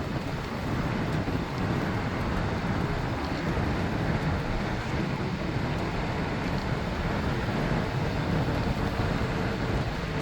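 Wind rushing over the microphone of a camera carried on a moving bicycle, a steady low rumble.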